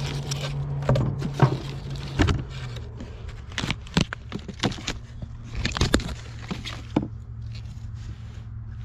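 A steady low engine hum, dropping slightly in pitch about two and a half seconds in, with scattered short crunches and scrapes over it.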